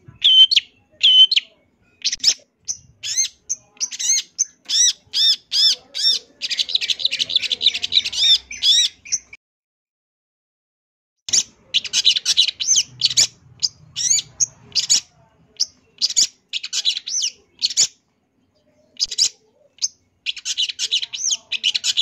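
Long-tailed shrike (cendet) singing: rapid runs of short, high-pitched calls with a dense chattering stretch, a pause of about two seconds near the middle, then more quick bursts of calls.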